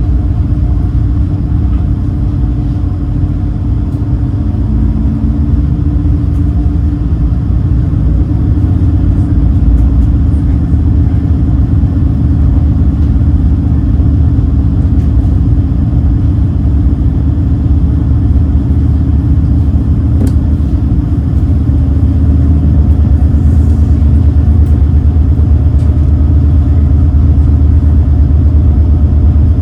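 Engines of the Super Jet Miyajima high-speed passenger boat running with a steady low drone, getting a little louder about two-thirds of the way in.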